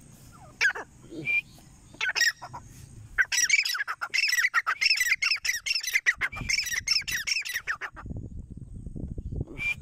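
Grey francolin calling: a few short separate calls, then about five seconds of rapid, repeated high-pitched calls that stop abruptly. Low noise follows near the end.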